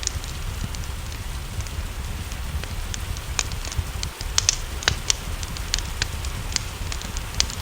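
Wood fire crackling with irregular sharp pops, a few louder ones clustered just before the middle, over a steady hiss of rain and a low rumble.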